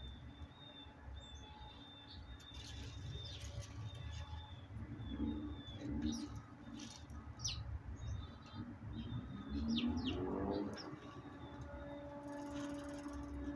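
Backyard songbirds chirping in quick repeated high notes, with a dove's low cooing joining about halfway through.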